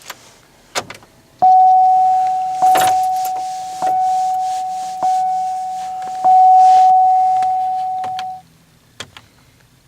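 Car dashboard warning chime, one tone struck five times about a second apart, each ring fading, then stopping. A click comes just before the first chime and a jingle of keys about three seconds in.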